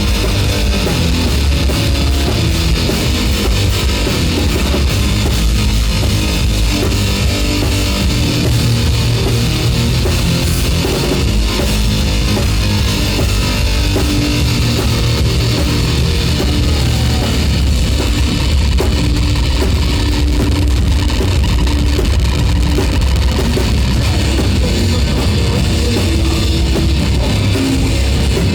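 A live heavy rock band playing loudly, with distorted electric guitars and a drum kit.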